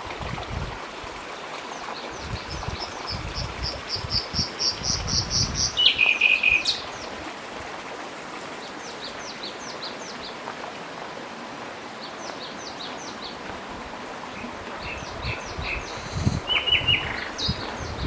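Songbirds singing: one bird gives a run of quick repeated high notes that grow louder over about three seconds, ending in a lower phrase. Scattered short chirps follow. Low thumps sound at the start, midway and near the end, over a steady outdoor background hiss.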